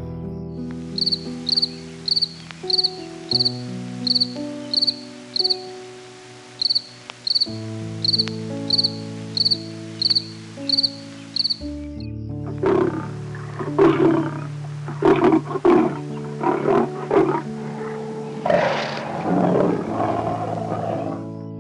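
Background music with a short high chirp repeating evenly, about one and a half times a second, for the first half. It is followed by a series of loud rough animal calls over the music in the second half.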